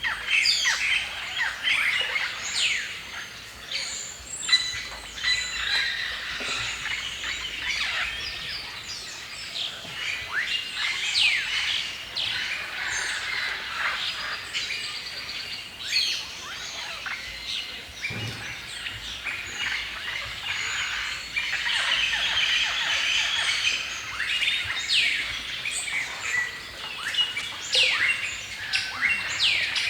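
A dense chorus of many songbirds chirping and singing at once, with overlapping short chirps and quick downward-sweeping calls.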